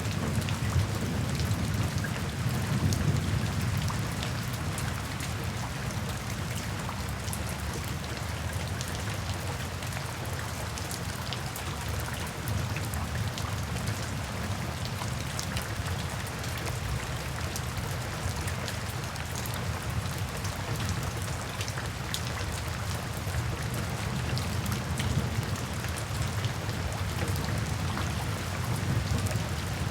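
Steady rain falling on a surface, with scattered sharp drop impacts and a low rumble of thunder that is strongest in the first few seconds and swells again near the end.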